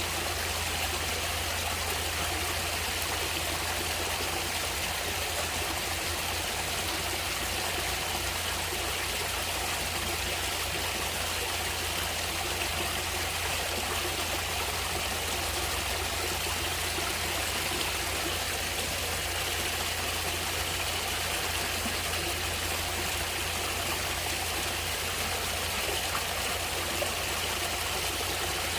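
Water of a natural stream flowing steadily.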